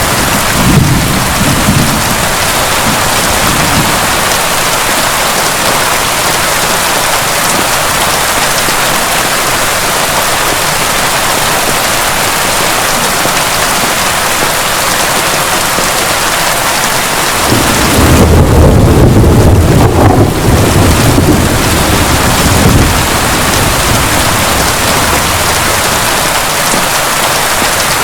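Heavy rain pouring steadily, with a long roll of thunder rumbling low from about two-thirds of the way through for several seconds, and a fainter rumble at the start.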